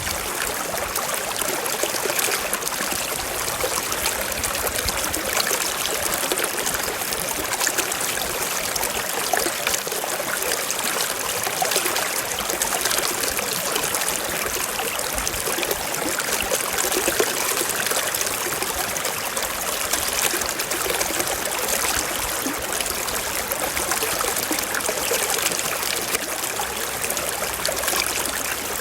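A small stream running and trickling over rocks, a steady even splash and babble of water.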